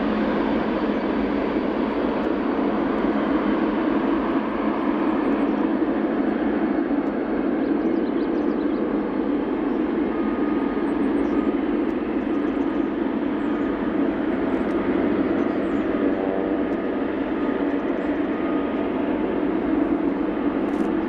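Jet airliner engines running with a steady, even noise, neither building nor fading.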